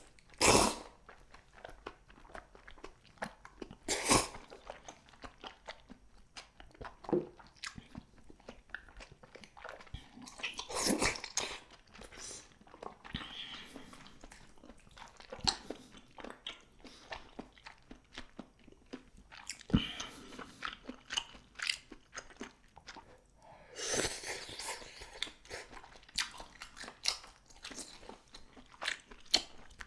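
Close-miked eating sounds: a person biting and chewing spicy cheese jjimdak, braised chicken, with irregular wet mouth clicks and smacks. Several louder bursts stand out, about half a second in and again around four, eleven and twenty-four seconds.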